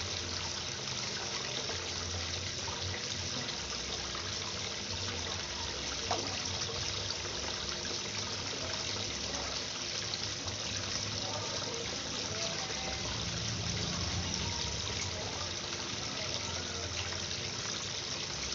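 Water trickling and splashing steadily into a koi pond, with one brief tick about six seconds in.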